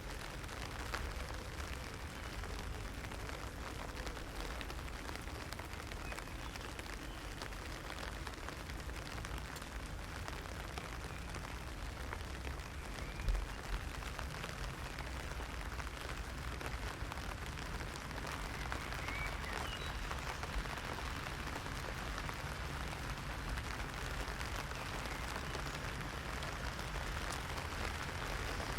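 Heavy rain falling on an umbrella: a dense, steady patter of drops. There is a single sharp knock about thirteen seconds in.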